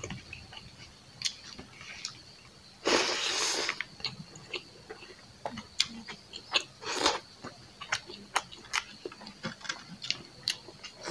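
Close-up eating sounds: a person chewing a mouthful of braised pork and rice, with irregular wet smacks and clicks of the mouth. A louder noisy rush lasting most of a second comes about three seconds in.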